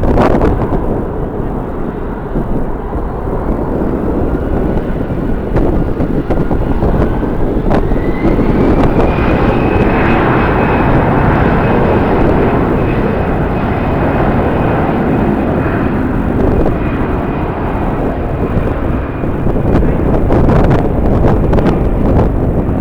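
Jet airliner engines spooling up: a whine rises over about five seconds and then holds steady above a heavy engine roar. Wind buffets the microphone near the start and again near the end.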